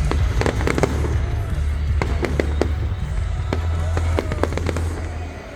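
Fireworks going off: repeated sharp cracks and pops in quick clusters, over a steady low rumble.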